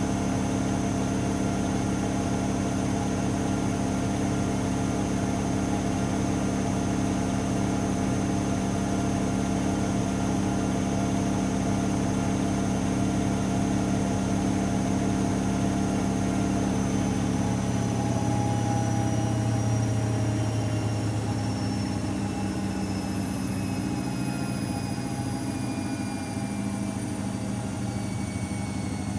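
AEG Lavamat L74810 washing machine spinning at a steady speed with a motor whine and hum; about two-thirds of the way through the whine starts falling steadily in pitch as the drum slows down from the spin.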